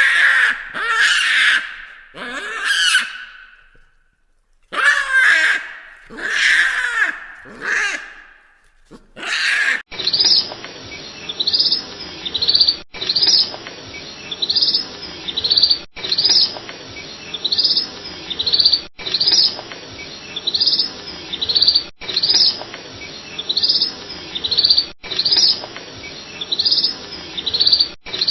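Loud, wavering animal calls in three bouts, then a cut about ten seconds in to birds chirping. The short high chirps come in a stretch that repeats about every three seconds.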